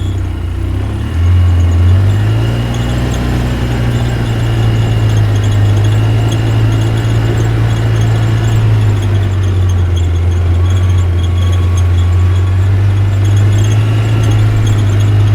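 Toy truck's motor running steadily: a strong low hum that grows louder about a second in, with a thin high whine over it.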